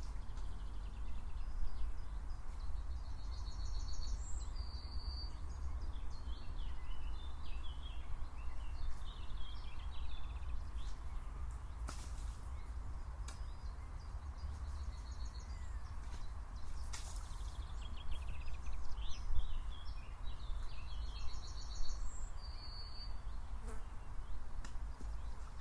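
Outdoor nature ambience: insects buzzing over a steady low rumble, while a songbird sings the same short, high phrase twice, a few seconds in and again near the end. A couple of sharp clicks in the middle.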